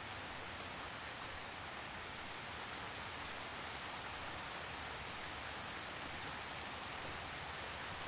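Steady gentle rain, with scattered faint droplet ticks over an even patter.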